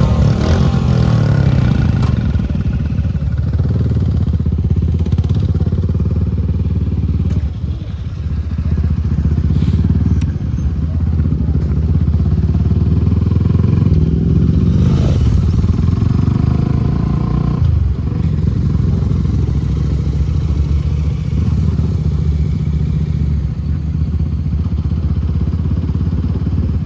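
Suzuki Gixxer SF250's single-cylinder engine through an aftermarket Akrapovic exhaust, running under way at riding speed. The revs drop briefly twice, about 7 and 18 seconds in, then pick up again.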